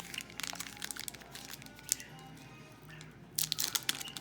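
A trading-card pack wrapper crinkling and tearing as it is ripped open, the crackle growing dense and loudest near the end; music plays underneath.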